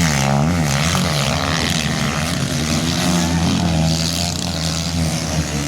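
Motocross motorcycle engines revving, their pitch rising and falling over and over as the throttle opens and closes.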